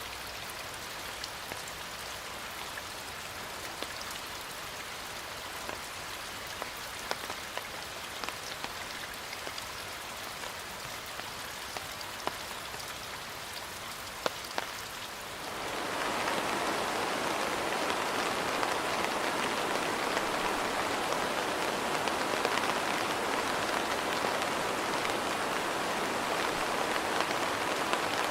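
Rain falling steadily, with separate drops ticking sharply on a surface. A little past halfway the rain grows suddenly louder and denser.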